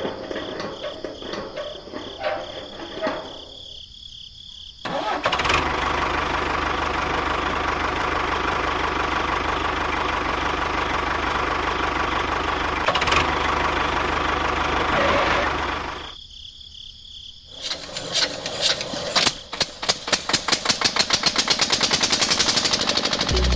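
A motor running steadily for about ten seconds, then cutting out. It starts up again with regular pulses that get faster toward the end.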